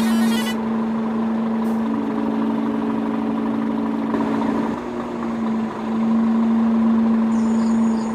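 Small motor of a handmade miniature truck or tractor running with a steady hum; a second, higher hum joins about two seconds in and stops around five seconds, when the main hum briefly dips.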